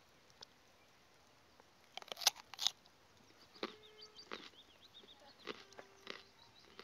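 Small birds calling in short chirps and whistles from about halfway through. About two seconds in come a few sharp crunching clicks, like steps on loose slate.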